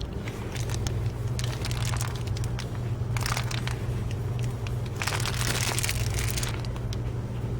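Crinkling, crackling handling noise with many small clicks and two longer rustles, about three and five seconds in, over a steady low hum.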